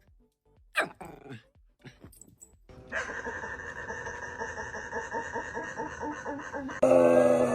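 A dog making odd vocal noises. It gives a few short yelps that slide down in pitch, then a long, steady drawn-out growling call. The call gets suddenly louder near the end, its pitch bending downward.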